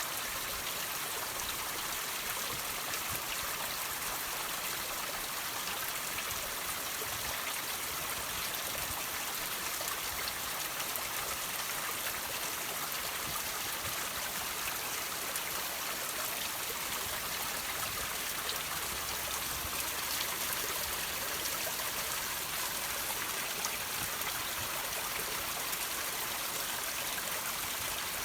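Water dripping from rocks and trickling in a small stream, a steady, even splashing hiss.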